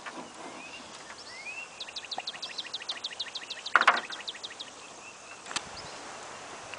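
A songbird sings a fast, even series of about twenty high chirps lasting about three seconds, after a single rising note. About halfway through comes a short loud whoosh, the loudest sound, and a single click follows later, near the end.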